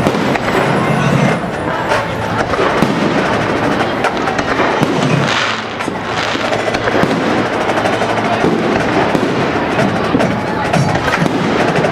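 Fireworks going off in quick succession, with bangs and crackles running together into a continuous din.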